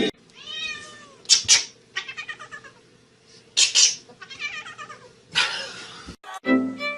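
A domestic cat meowing several times, in separate drawn-out calls with short breathy, noisy bursts between them. Music starts just before the end.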